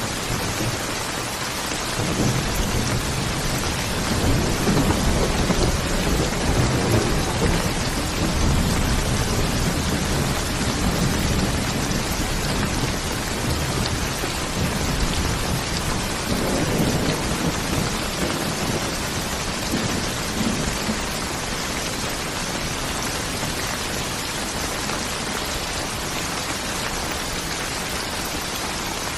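Steady heavy rain hissing, with a long roll of distant thunder rumbling low from about two seconds in and dying away past the middle.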